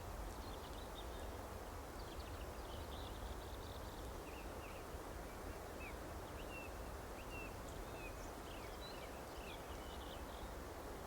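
Several small songbirds chirping, with short, high chirps and quick trills coming irregularly throughout, over a steady low background rumble.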